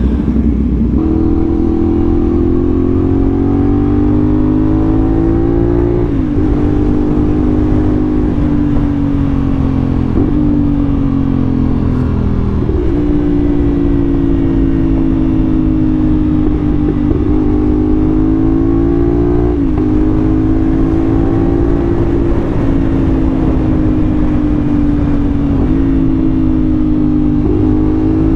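CFMoto 450SR's parallel-twin engine under way, its note rising and falling with the throttle and dropping sharply at several gear changes, over a low wind rumble.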